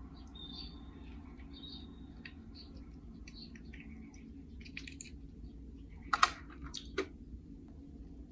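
Toy cars and a plastic carry case being handled: light, scattered clicks and taps, with two sharper clicks about six and seven seconds in.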